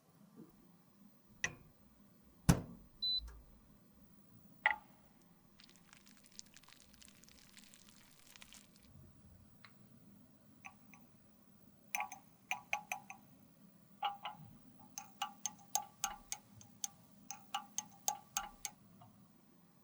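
Small hard objects being handled: scattered sharp clicks and taps, a few seconds of soft scraping, then a quick run of light taps, about four a second, near the end.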